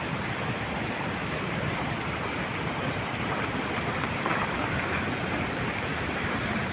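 Steady rushing noise of a snow-and-debris avalanche flowing down a mountain stream gully.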